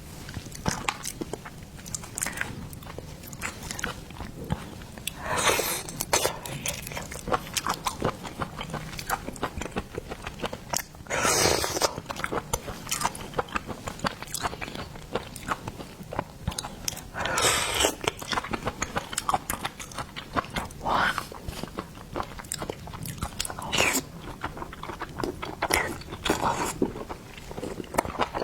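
A person chewing and crunching food close to the microphone, with a steady run of small wet clicks. Several louder crunchy bites come every few seconds.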